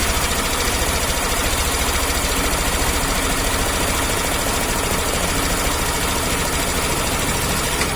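Suzuki Access 125 BS6 scooter's single-cylinder fuel-injected engine idling steadily after a restart. It runs without the cam chain noise, which the mechanic puts down to a faulty timing chain tensioner, now replaced.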